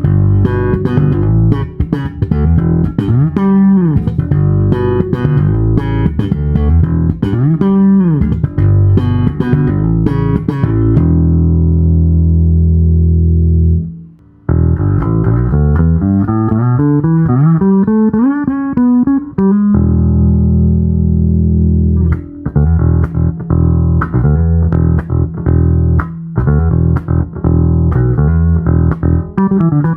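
Sadowsky MX20 electric bass played solo: a quick line of plucked notes with slides, then a long held low note that stops abruptly, a rising run of notes, another held note, and more quick playing.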